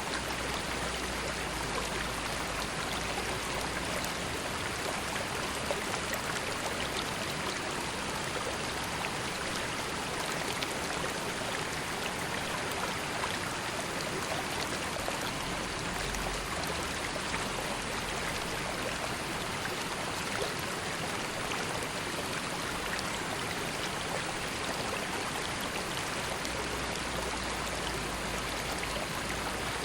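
River water flowing steadily, an even rushing and babbling with fine trickling detail and no change in level.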